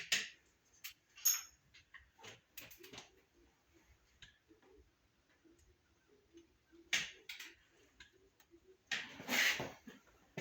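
Sharp metallic clicks and clanks of a torque wrench and socket on a race car engine's cylinder head bolts as they are torqued down. There are several quick clicks in the first three seconds, one with a brief metallic ring, then a couple of clanks about seven seconds in and a longer rattling clatter about nine seconds in.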